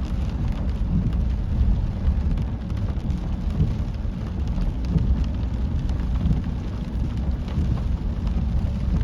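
Heavy rain pouring down on a car, heard from inside the cabin: a steady dense patter of drops over a low rumble.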